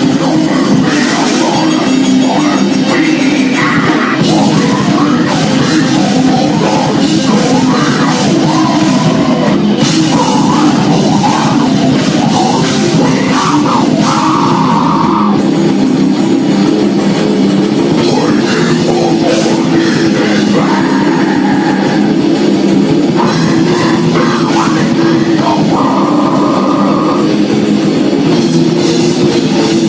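Live heavy rock band playing loudly, with distorted electric guitars over a drum kit.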